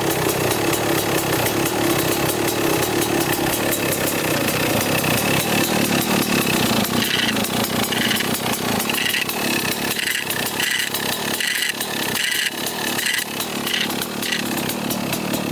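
1995 Kawasaki KX250 two-stroke dirt bike engine running, with a metallic scraping from the clutch side that comes and goes in the second half. The owner puts the scraping down to the clutch rubbing against a dented, pushed-in clutch side cover when the lever is pulled in.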